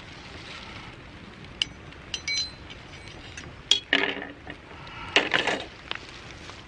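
Clinking and clattering of dishes or utensils: scattered sharp clinks, some ringing briefly, with a denser clatter about four seconds in and again about five seconds in.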